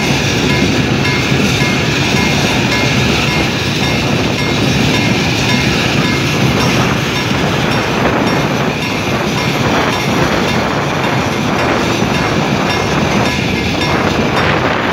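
Mixed freight train rolling past at a level crossing: a steady rumble of wagon wheels on the rails, with a clatter of wheels over rail joints growing plainer after about eight seconds. A repeated high ringing, typical of the level-crossing warning bell, sounds through the first half.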